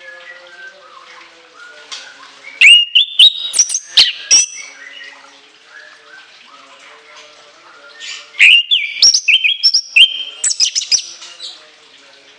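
Chestnut-capped thrush (anis kembang) singing: two loud bursts of rapid, shrill high notes, one starting about two and a half seconds in and the other about eight seconds in, with softer song between them.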